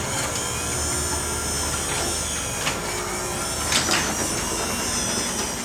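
LiftMaster 3850 Elite belt-drive garage door opener running, its DC motor driving the belt along the rail as the steel sectional door travels. It gives a steady, even hum, with a couple of faint clicks about the middle.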